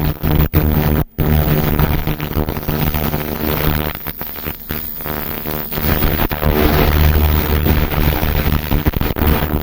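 Handheld pulsed laser cleaner working over a metal motorcycle cylinder block: a steady loud buzzing hiss over a low machine hum, cutting out briefly a few times as the trigger is released.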